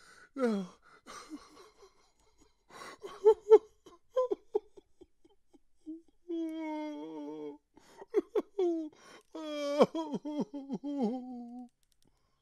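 A human voice making wordless sounds: short sliding cries and whimper-like notes, a held moan about six seconds in, then quick swooping wails near ten seconds. It stops shortly before the end.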